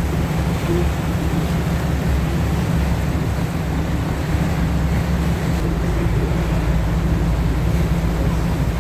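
Tour boat's engine running steadily, with wind rushing over the microphone on the open deck.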